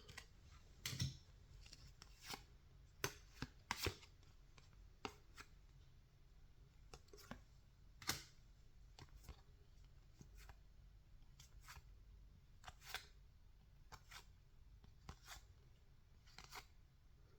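Faint, irregular clicks and snaps of baseball trading cards being handled and flipped one at a time, the strongest about a second in and about eight seconds in.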